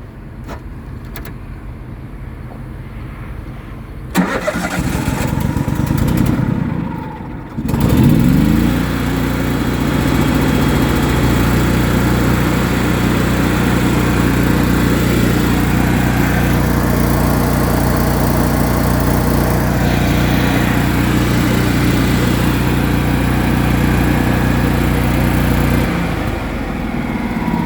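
Small gas engine of an engine-driven welder cranking for about three seconds, catching with a rising rev, then running steadily. Near the end it drops to a lower, quieter speed.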